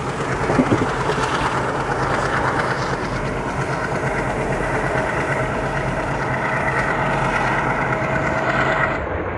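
A diesel-hauled passenger express running at speed, heard from an open coach door: a steady rumble and clatter of wheels on the rails, with a few steady tones over it from the diesel locomotive working hard ahead. The sound turns abruptly duller shortly before the end.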